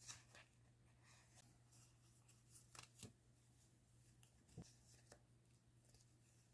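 Faint, scattered rustles and small clicks of paper and plastic stationery being handled, over a low steady hum.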